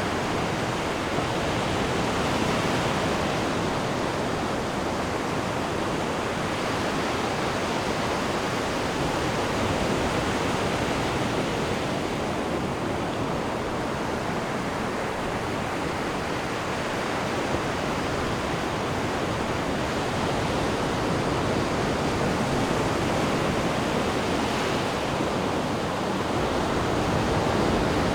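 Ocean surf washing continuously onto the shore, a steady rush that swells and eases gently every several seconds as waves come in.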